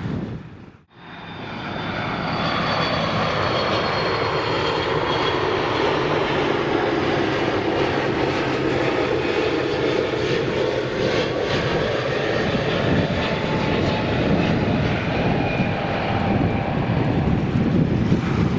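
Airbus A330-200 twin-engine jet on its landing approach: engine rumble and rushing air with thin high whines that slowly fall in pitch. The sound drops out briefly about a second in, then holds steady.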